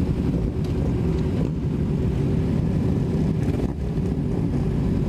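Kawasaki Ninja 250R's parallel-twin engine idling steadily, with other motorcycles idling around it.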